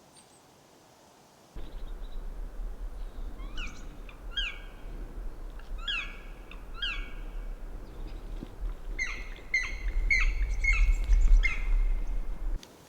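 A small songbird calling close by: a series of sharp, sweeping chirps that starts about three seconds in, then a quicker run of notes at about two or three a second near the end. Under them is a low rumble that starts about a second and a half in and cuts off just before the end.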